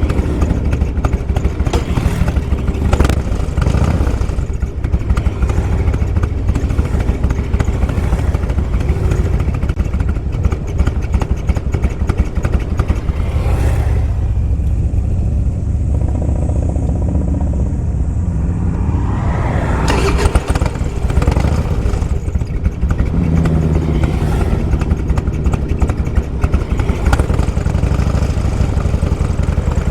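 Motorcycle engines running steadily, a deep rumble with louder swells about 3, 13 and 20 seconds in.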